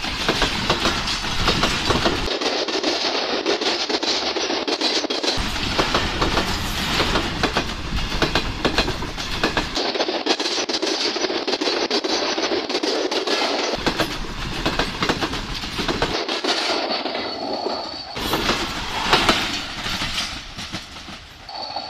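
Pakistan Railways passenger coaches passing close by at speed, their wheels beating a rapid clickety-clack over the rail joints under a steady rumble. The sound changes abruptly several times, and it fades near the end as the last coach runs away.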